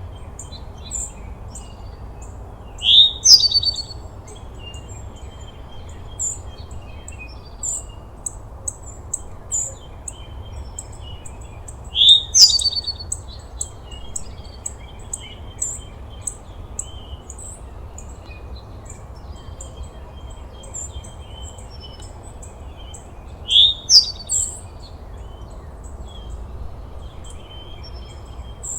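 Birds singing: a loud, rising call comes three times, about every ten seconds, among a steady run of short, very high chirps, over a low, even background hum.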